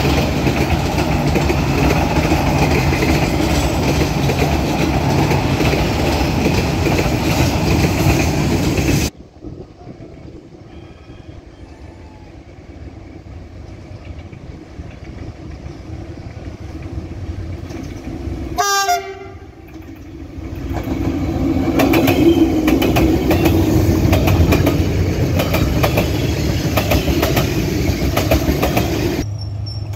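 Trains running on steel rails in several clips: passenger coaches rumbling past with steady wheel noise, then a diesel freight train drawing closer. About two-thirds of the way through comes a short horn blast that drops in pitch, followed by louder wheel and engine noise as the train runs by.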